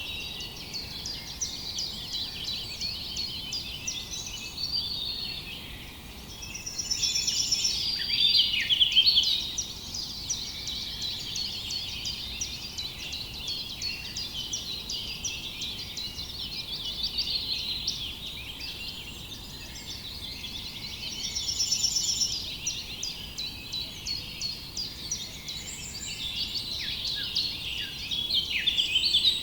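A chorus of many small birds chirping and singing at once, with quick, overlapping high chirps and short phrases that never stop and swell loudest about eight seconds in.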